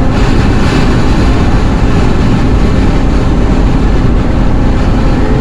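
Loud, steady rush of strong windstorm wind around a Chevrolet Astro van moving at highway speed, over a heavy low rumble of road and engine noise.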